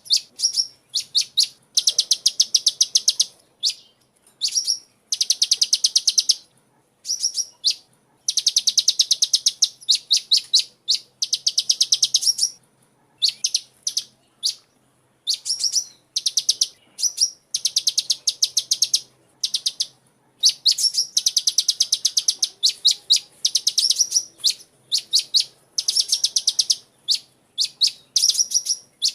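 Sunbird song: bursts of rapid, high-pitched chirps strung into fast trills, each lasting about half a second to a second and a half, repeated over and over with brief gaps between.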